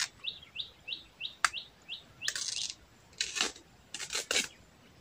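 A bird repeating a short chirp about three times a second, which stops about two seconds in. A few scratchy rustles and clicks follow.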